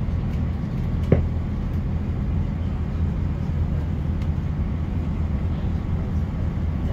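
Passenger train running, heard from inside the carriage as a steady low rumble, with one sharp click about a second in.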